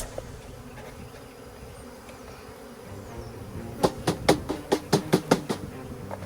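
A swarm of Russian honey bees buzzing steadily. About four seconds in comes a quick run of about nine sharp knocks as the bee package is jarred to shake the bees out into the hive.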